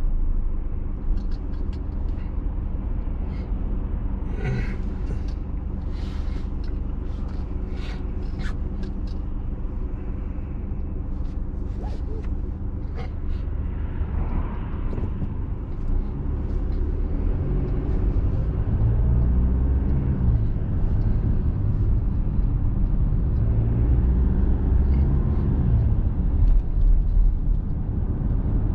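A vehicle driving, with steady low engine and road rumble. From a little past the middle, the engine note rises and falls a few times as it speeds up and slows, with a few faint clicks earlier on.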